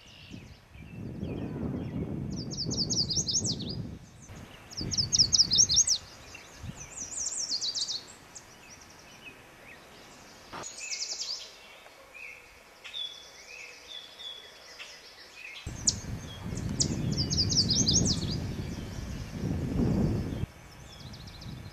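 A songbird singing repeated short phrases of quick, high, descending notes, with other softer bird calls between them. A low rumble of background noise sits under the song at the start and again in the last few seconds.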